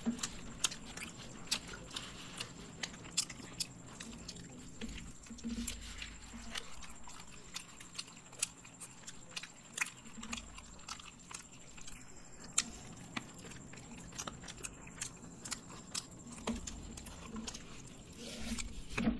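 Chewing and biting from several people eating fried chicken and black bean noodles, close to the microphone, with many sharp, irregular clicks throughout.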